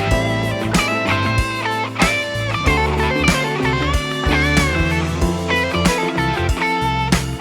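Ibanez ICHI10 electric guitar playing a flowing melodic passage of plucked notes, some bent or slid in pitch, over sustained low notes.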